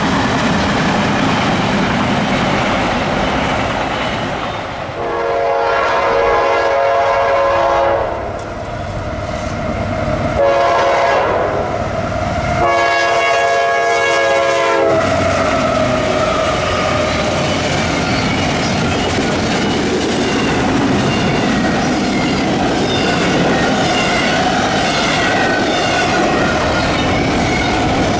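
Freight trains rolling past, a steady rumble of cars on the rails. A diesel locomotive's multi-chime air horn sounds three blasts, the first the longest, ending about halfway through. Wheels then clack over the rail joints as the train goes by.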